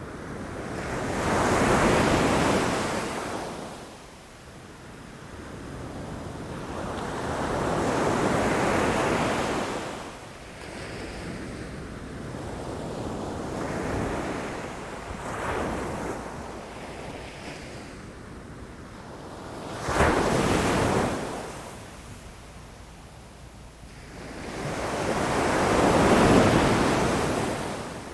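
Ocean waves breaking against rocks, each surge swelling and fading over a few seconds, with five or six breakers; one near the middle hits suddenly and sharply.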